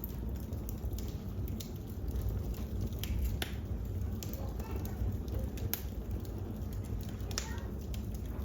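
Wood fire crackling in a fireplace: irregular sharp pops and snaps over a steady low rumble. Faint voices murmur in the background.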